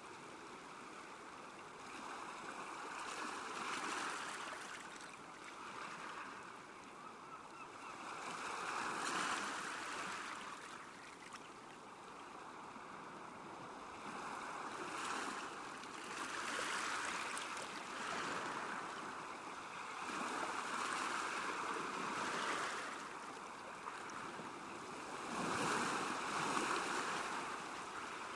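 Small waves lapping on a lakeshore, the water noise swelling and fading every few seconds.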